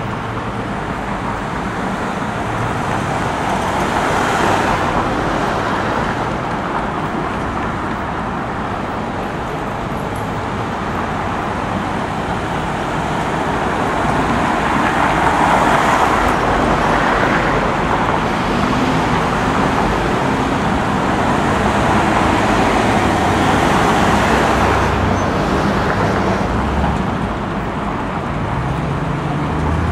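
Road traffic noise: vehicles passing over a steady low engine rumble, swelling as cars go by several times.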